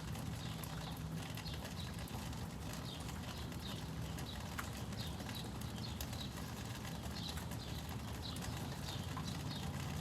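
Small birds chirping over and over in short high notes, against a steady low hum.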